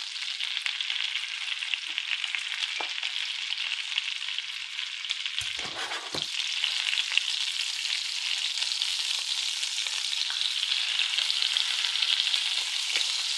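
Turkey liver sizzling in browning butter in a nonstick pan: a steady frying hiss. About halfway through, two dull knocks come as the pan is shifted on the cooktop.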